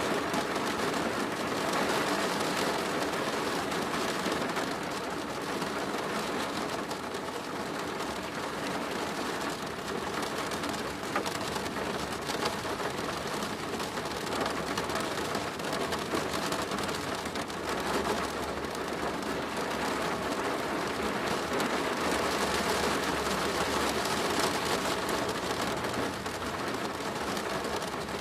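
Steady rain falling on a plastic roof: a dense, even patter of drops.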